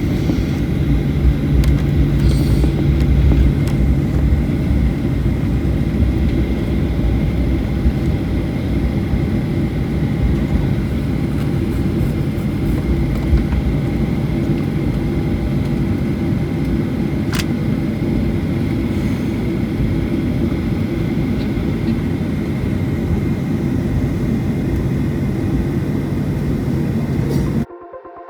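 Jet airliner engine noise: a steady, heavy rumble with a low hum, cut off abruptly near the end.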